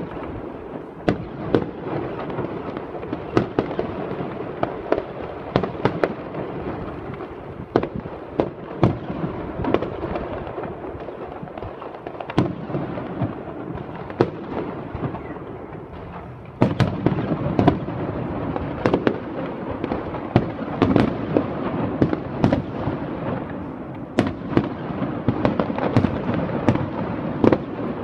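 Aerial fireworks display: a continuous crackle with frequent sharp bangs from shell bursts, growing denser and louder a little past halfway through.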